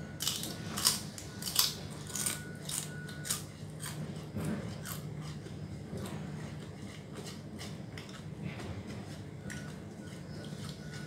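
A person chewing crunchy food with the mouth, a quick run of crisp crunches in the first few seconds, then sparser, quieter chewing and fingers picking at a plastic bowl, over a steady low hum.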